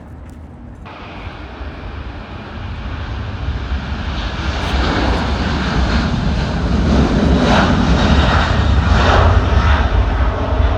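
Jet airliner passing, its engine noise building steadily over several seconds and at its loudest near the end.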